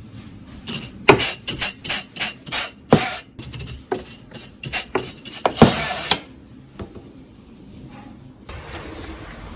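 A quick, uneven run of rough scrubbing strokes rubbing over a hard surface, about a dozen in a few seconds, ending with one longer stroke about six seconds in.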